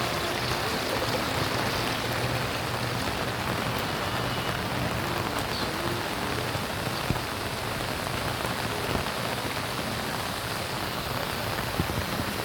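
Steady rain falling, an even hiss of drops on surfaces, with a few sharper single drips ticking out about seven seconds in and near the end.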